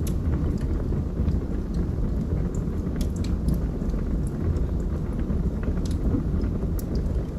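Log fire burning, a steady low rush of flames with scattered sharp crackles and pops from the wood.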